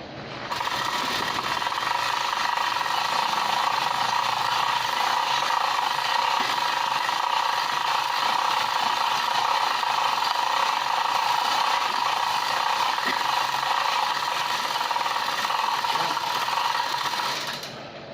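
A power tool running steadily with a high whine, starting about half a second in and stopping shortly before the end.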